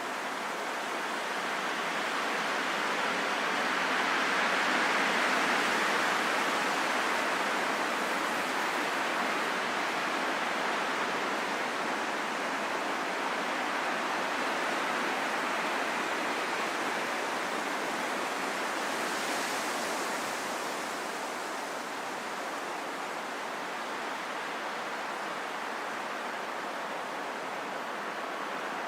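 Steady rain falling in a forest, an even hiss of drops that swells a little a few seconds in.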